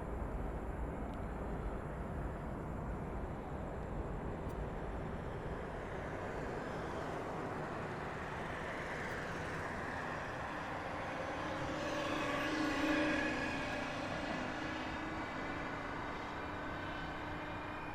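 Jet airliner engines approaching and passing. A steady rumble grows into a whine with several tones, loudest about two-thirds of the way through, then fades off.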